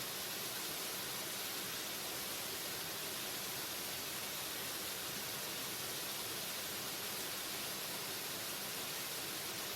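Waterfall: a steady, unbroken rush of falling water, even in level throughout, with a bright hiss on top.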